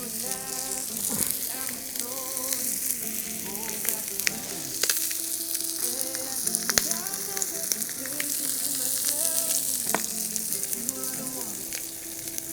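Chicken sizzling hard on a thick iron griddle over a Swedish torch log fire, with sharp pops and crackles scattered through. The fire is at full heat and cannot be turned down, so the meat fries fast and loud.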